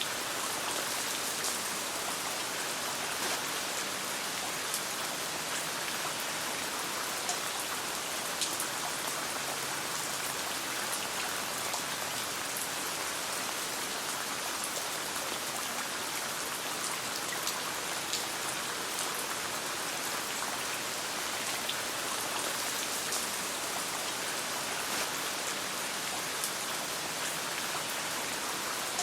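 Steady rain falling on a tent, an even hiss of drops with scattered sharp clicks throughout.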